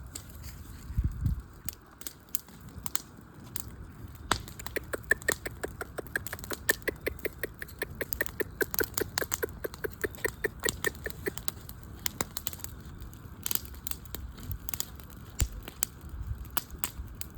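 Campfire burning, wood crackling with many sharp pops and snaps. Through the middle it pops fast and evenly, several times a second.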